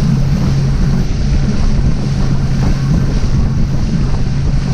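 A motorboat's engine running at a steady cruising drone, with wind buffeting the microphone and water noise from the moving boat.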